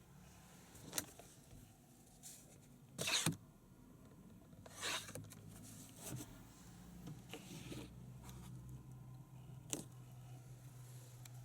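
Faint handling noises inside a car: a few sharp clicks and short rustles, the loudest about three seconds in, over a steady low hum.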